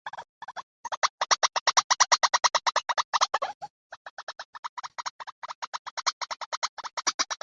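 Recorded white-breasted waterhen call of the kind played as a bird-trapping lure: rapid runs of repeated notes, about nine a second, with short breaks just after the start and about halfway through.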